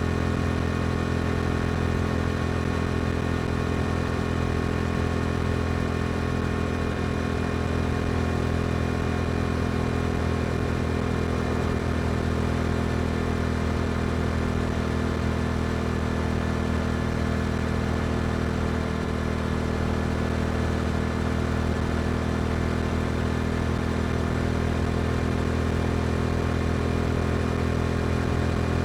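Yamaha R7's parallel-twin engine through an Akrapovic exhaust, running at a steady engine speed while cruising, with a constant note that neither rises nor falls.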